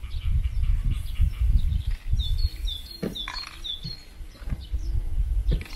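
A small bird chirping a quick run of about five short, high notes in the middle, over an uneven low rumble of wind on the microphone, which is the loudest sound.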